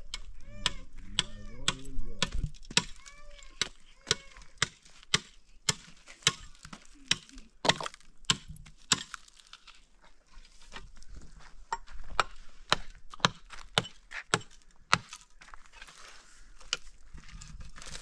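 Repeated sharp blows of a tool striking wood, at times about two a second, with short pauses between runs, like chopping or hammering on timber.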